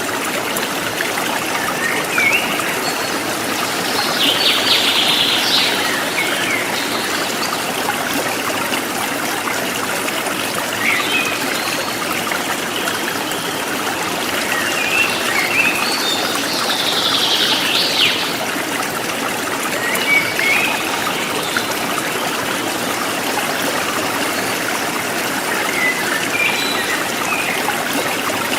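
River water flowing and burbling steadily over its bed, with birds chirping now and then, including two longer trilling calls, a few seconds in and again after about the middle.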